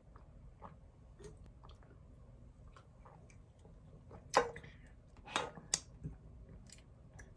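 Quiet chewing with small wet mouth clicks, then three louder sharp clicks about four and a half, five and a half and six seconds in.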